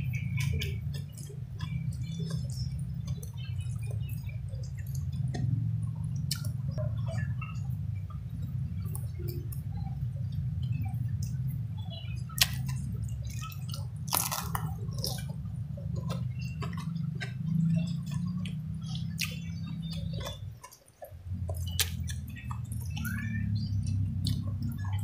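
Close-up mouth sounds of eating rice and fish by hand: chewing and wet lip smacks with many scattered short clicks. These sit over a steady low hum that drops out briefly near the end.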